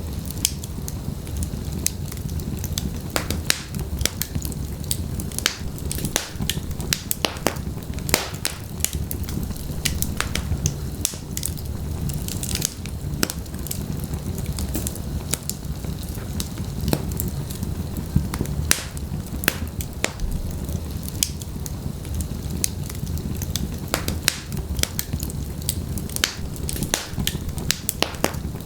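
Wood fire in a fireplace crackling: frequent irregular sharp pops and snaps over a steady low rumble of burning.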